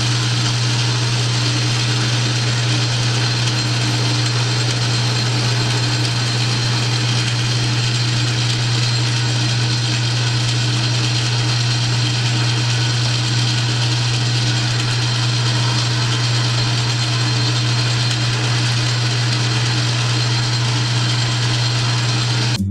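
South Bend metal lathe running steadily, taking a facing cut on the pulley stock, with a strong low motor hum under an even, hissing cutting noise.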